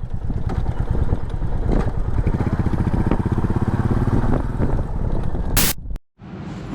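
Motorcycle engine running with a fast, even pulse, heard from on the bike. About five and a half seconds in comes a short loud burst of noise, then the sound cuts off abruptly.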